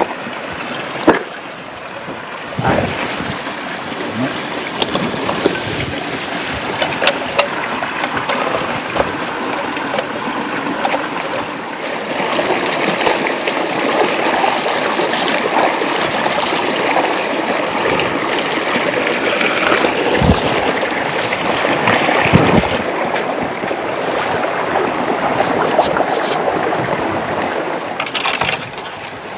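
Fast-flowing river water rushing, with scattered splashes and knocks, and two deeper thuds about two-thirds of the way through.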